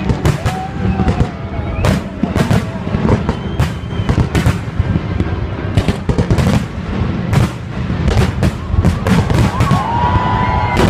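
Fireworks display: aerial shells bursting overhead in a rapid, irregular string of bangs, several a second, over a constant low rumble. Near the end a steady high tone comes in.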